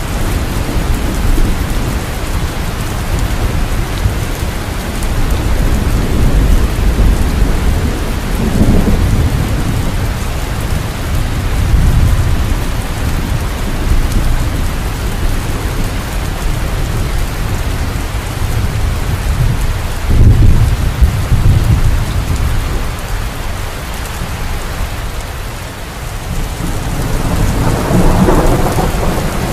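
Steady heavy rain hissing on surfaces, with low rolling thunder swelling up several times, loudest about two-thirds of the way through.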